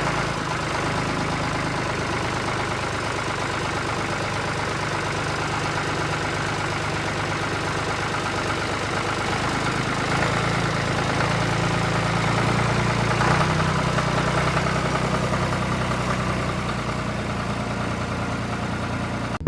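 An engine or motor running steadily, with a low hum under a continuous mechanical rattle; the hum grows somewhat stronger about ten seconds in.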